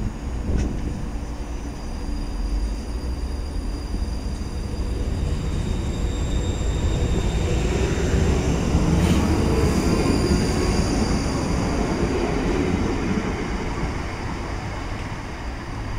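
ScotRail Class 334 Juniper electric multiple unit pulling away and running past close by, its traction motors giving a faint whine that slowly climbs in pitch over the rumble of its wheels on the rails. It grows loudest about halfway through, with a couple of sharp clicks, then fades as the train draws away.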